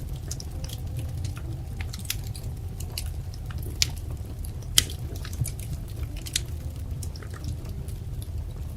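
Wood fire crackling, with irregular sharp pops over a steady low rumble; the loudest pop comes about five seconds in.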